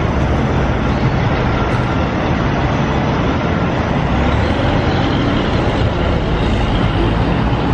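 Steady city street traffic noise with a heavy low rumble from passing vehicles.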